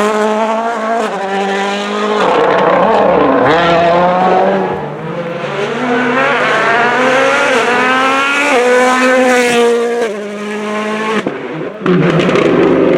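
World Rally Car's turbocharged 1.6-litre four-cylinder engine at full throttle on a rally stage. It revs high and drops through gear changes, the pitch rising and falling several times.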